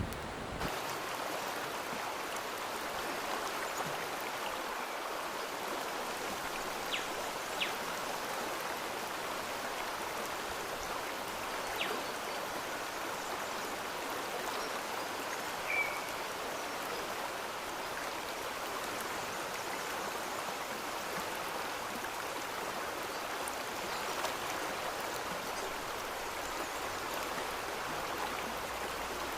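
Steady rushing of a flowing stream, with a few faint clicks and one short high chirp about halfway through.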